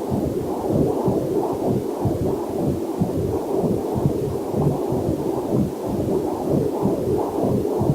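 Pulsing, whooshing heartbeat picked up through a Doppler heart monitor, about two beats a second, with a faint waterfall hiss mixed in underneath.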